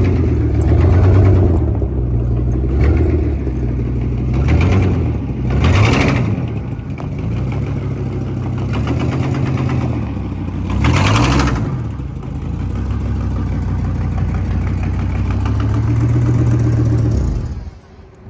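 Old farm truck's engine running, revving up and down a few times, then cutting off abruptly near the end.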